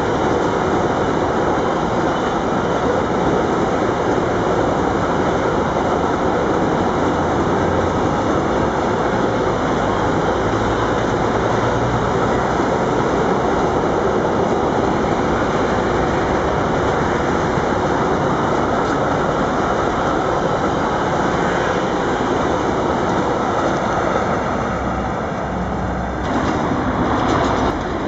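Loaded container wagons of a long freight train rolling past at speed: a steady, loud rumble of wheels on rail. The sound changes sharply about two seconds before the end.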